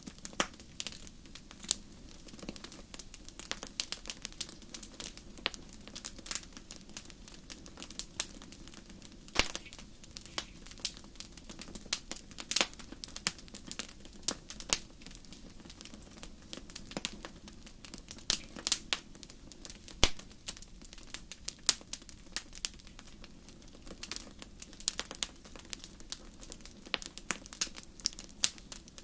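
Wood fire crackling in a fireplace: irregular sharp snaps and pops, several a second, some louder than the rest, over a steady low background of the burning fire.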